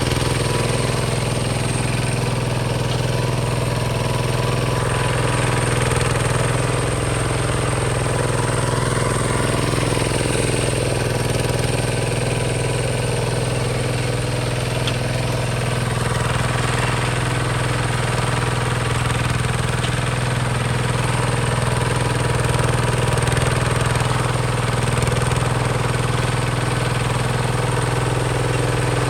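Diesel engine of a Hinota HG Gold 155 DI tractor running steadily at an even speed, with a knocking beat.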